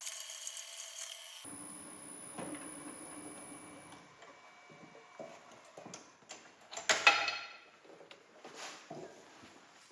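Workshop handling sounds: a series of knocks and clicks of objects being moved and set down, with the loudest clatter about seven seconds in.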